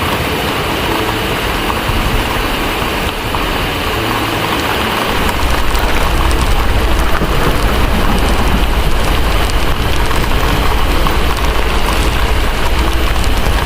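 Steady heavy rain. About five seconds in, a deep rumble of thunder comes in and rolls on underneath it.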